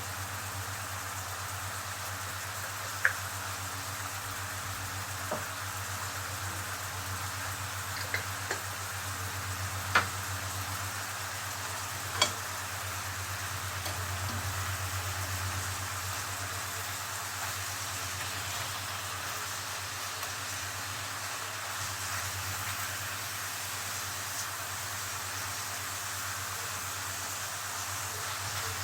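Seafood frying in oil in a pan, with a steady sizzle and a low hum underneath. A few sharp clicks of a utensil against the pan come in the first half.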